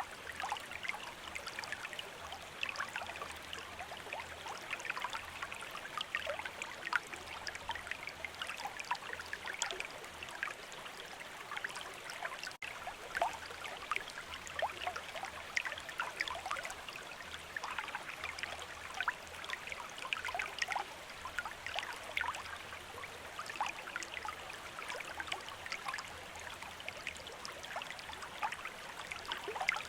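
River water running steadily, a continuous rush dotted with many small splashes and gurgles. The sound dips for an instant about twelve and a half seconds in.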